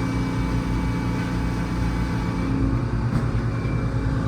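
Sawmill running steadily, its engine drone holding even throughout, with a small knock about three seconds in.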